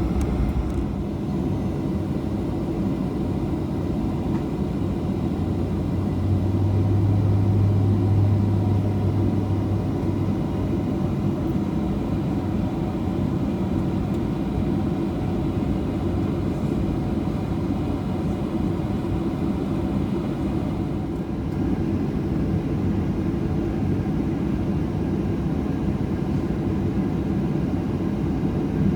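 Steady rumble inside the cabin of a Boeing 737-800, the engines running with a low drone and faint steady whining tones, the drone swelling for a few seconds about a quarter of the way in.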